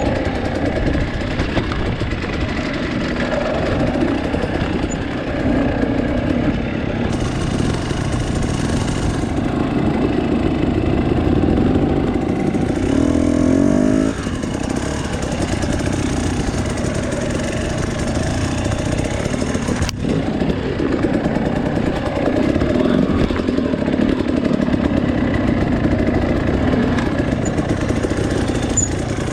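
Two-stroke dirt bike engine running at low, uneven revs on a rough trail, the throttle opening and closing. Near the middle the revs climb briefly and then drop off sharply. A single sharp click comes about two-thirds of the way through.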